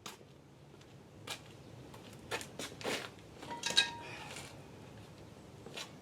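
Rusty metal brake parts being handled: a scatter of light clinks and knocks, one a little past the middle ringing briefly like struck metal.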